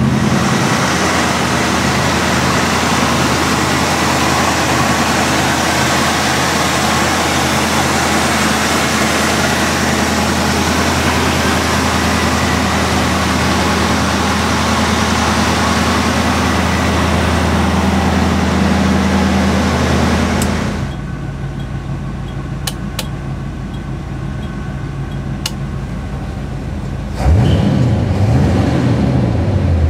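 1957 Chevrolet Bel Air's V8 engine idling steadily. About two-thirds through it becomes quieter and more muffled, with a few light clicks, and near the end the pitch briefly wavers up and down.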